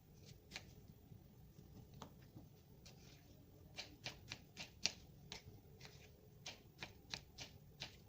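Irregular sharp clicks and taps, a dozen or so, bunched about four seconds in and again near the end.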